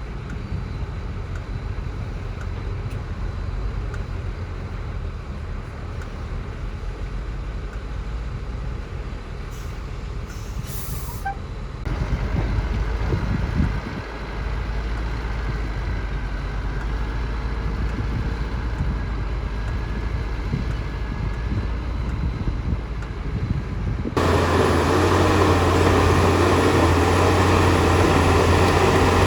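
Heavy diesel earthmoving machinery running steadily, with a short hiss about ten seconds in. The sound changes abruptly twice, about twelve and twenty-four seconds in, and after the second change a close engine hums louder and more evenly.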